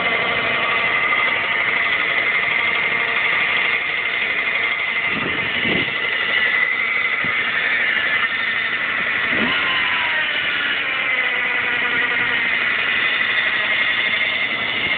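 1977 Kreidler 50cc two-stroke moped engine idling steadily while warming up after a cold start, with brief rises in pitch about five and nine seconds in.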